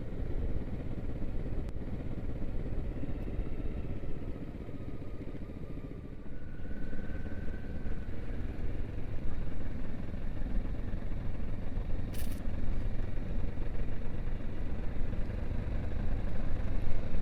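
Motorcycle on the move: engine and wind rumble, easing off about five or six seconds in and then picking up again.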